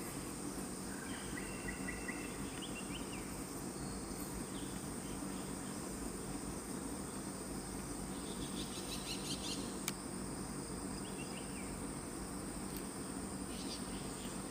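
Tropical forest ambience: insects keep up a steady high-pitched drone, with a few short runs of chirping notes and a brief patch of rapid ticking. A single sharp click sounds about ten seconds in.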